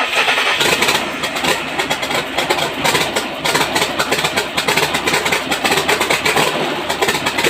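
Small engine running after a sudden start, with a fast, busy firing rhythm: its first test run after a piston replacement.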